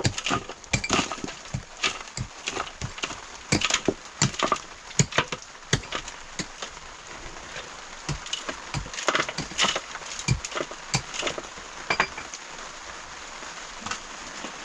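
Irregular clicks and knocks, several a second, over a steady hiss.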